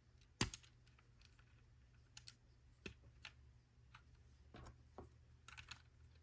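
Faint, scattered clicks of plastic LEGO pieces being handled and pressed together, with a sharper click about half a second in and a small run of clicks in the second half.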